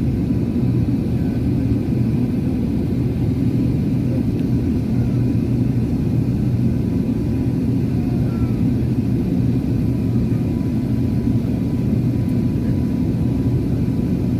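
Steady low rumble of cabin noise inside an Airbus A380-800, from its engines and airflow, with a faint steady tone above it.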